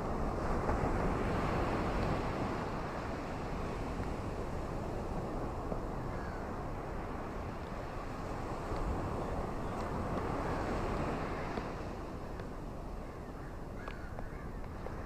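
Ocean surf washing onto a beach: a steady rush that swells twice, about a second in and again around the middle, with a few faint high ticks later on.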